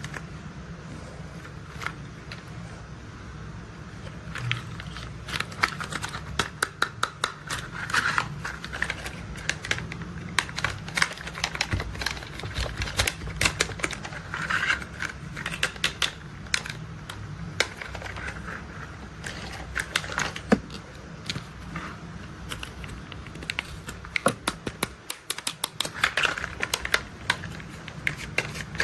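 Plastic toy construction vehicles being handled, making quick, irregular runs of sharp clicks and clatter over a steady low hum. The clicking starts about four seconds in.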